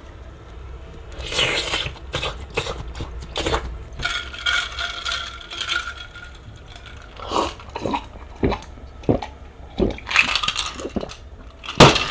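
Ice and liquid handled in a glass: a pour with a ringing, filling tone, then a string of sharp clinks and knocks, the loudest near the end.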